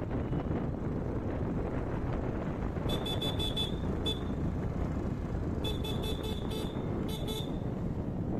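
Steady rumble of a moving vehicle and wind on the microphone, broken by three groups of rapid, high-pitched horn toots, about three, six and seven seconds in.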